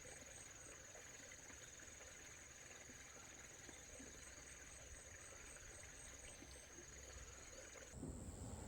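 Faint insects trilling: a steady high trill with a faster pulsing chirp above it. Near the end a low rumble comes in and the trill changes.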